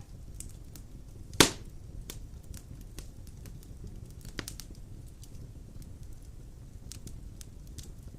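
Wood fire burning large logs in a stone fireplace: a steady low rumble of flames with scattered crackles, one loud pop about a second and a half in, and a smaller pop a few seconds later.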